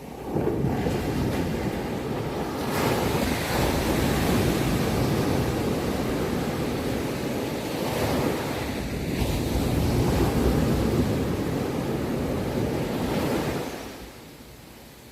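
Ocean waves breaking and washing on the shore. A long surge of surf swells up at the start, rises and ebbs, and then drains away near the end.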